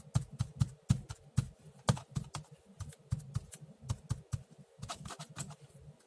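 Ink applicator being dabbed rapidly and repeatedly onto paper around a punched-out stencil shape: a quick run of soft taps, several a second, each a dull thud with a light click.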